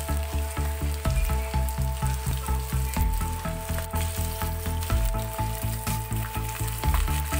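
Breaded chicken strips deep-frying in a pan of hot oil, a steady sizzle, over background music with a steady beat.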